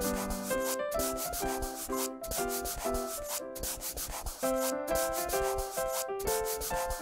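Marker scribbling on paper in fast, even back-and-forth rubbing strokes as a shape is coloured in, over a light children's tune of plinking melody notes.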